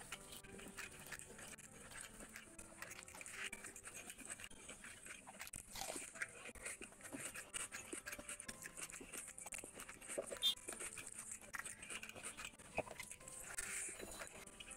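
Close-up wet chewing and lip-smacking of a person eating rice and curry by hand, with many small irregular clicks and squelches from the mouth and the fingers working the rice.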